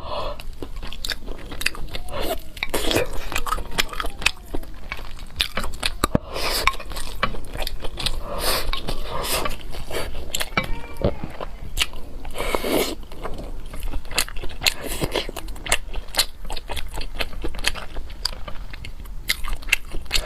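A person eating close to the microphone: continuous chewing and biting, with many quick wet clicks and smacks and a few louder, noisier mouthfuls.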